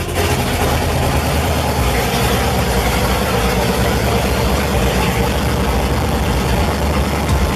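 A newly built supercharged LT1 V8 in a 1996 Buick Roadmaster idling steadily just after start-up. The exhaust is not yet hooked up, so the engine runs open and loud.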